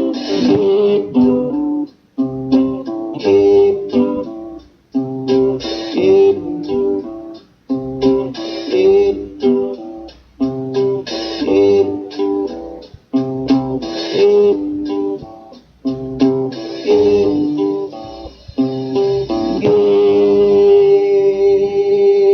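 A band playing an instrumental guitar passage: strummed chords in short phrases that repeat about every three seconds. Near the end it lands on one long held chord that rings out.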